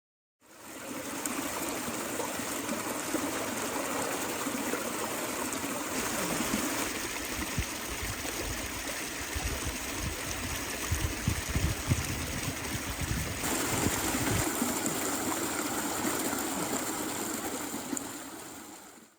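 Creek water trickling and flowing steadily, fading in at the start and out near the end, with abrupt changes in its sound about six and thirteen seconds in.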